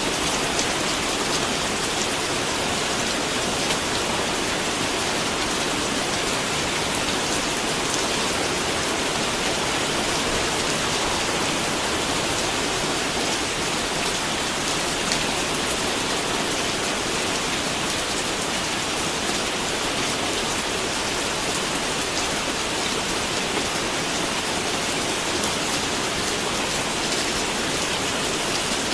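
Steady rain falling, an even hiss of many drops with faint individual drop ticks, constant in level throughout.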